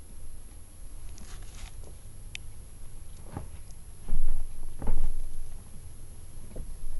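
Light pattering and scuffing taps, with two loud dull bumps about four and five seconds in and a smaller one near the end.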